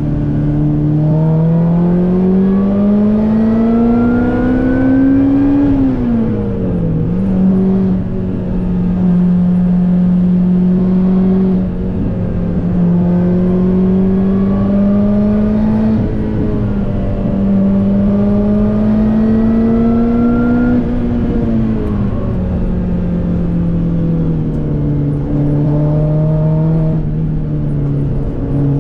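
Lotus Elise's mid-mounted four-cylinder engine heard from inside the cabin, revving up through a gear, then dropping sharply at a gear change about six seconds in. It pulls steadily and slowly climbs through the next gear, then eases off to a lower, steady note after about 21 seconds.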